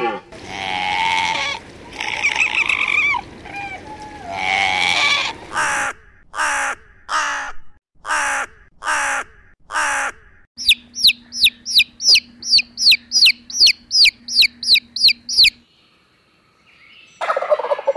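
A sequence of animal calls: deer calling with long, wavering cries, then a crow cawing about seven times, then a fast run of sharp, high calls at about three a second. Near the end a single farmyard poultry call, from a turkey or hens.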